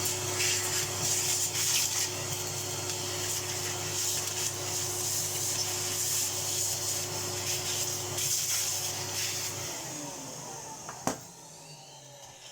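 Workshop vacuum cleaner running steadily while its nozzle rubs and scrapes over parts being cleaned, then switched off about ten seconds in, its motor winding down. A single sharp knock follows about a second later.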